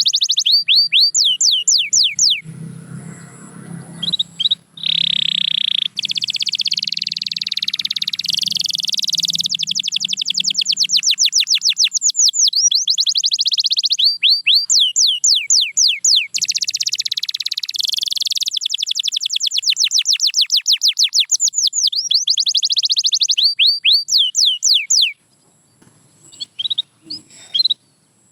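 A domestic canary singing a long song of fast-repeated sweeping notes and rolling trills, changing from one tour to the next. It stops suddenly near the end, leaving only a few short notes.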